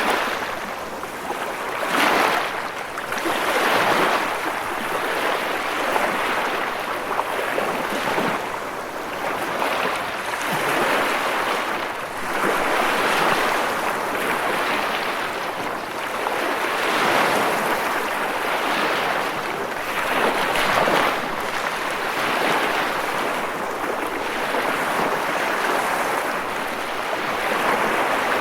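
Ocean waves washing ashore: a continuous rushing surf that swells and eases every few seconds as waves break and wash in.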